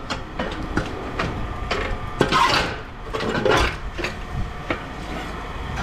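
Scrap metal being handled and unloaded: irregular knocks and clanks, with a couple of brief scraping rushes in the middle.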